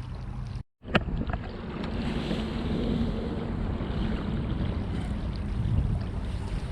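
Wind buffeting the microphone over water lapping around a kayak, with a sharp knock just after a short break about a second in.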